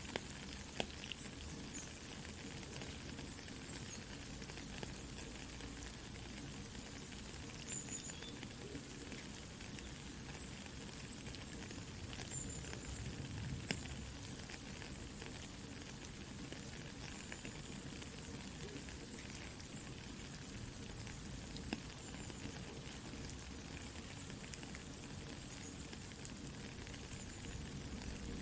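Soft rain falling steadily, mixed with the light crackle and hiss of a campfire, with small scattered pops throughout.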